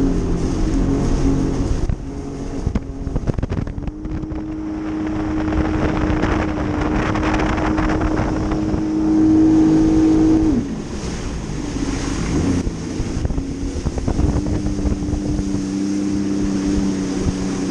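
Jet ski engine running at a steady high pitch, with water rushing and wind buffeting the microphone. About ten seconds in the engine note drops away as the throttle eases off, and a few seconds later it settles back into a steady note.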